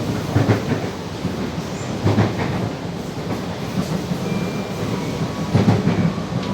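Alstom series 8900 electric multiple-unit train running at speed, heard from inside the car: a steady rumble of wheels and running gear with three heavier knocks from the wheels crossing rail joints or switches, the last one near the end.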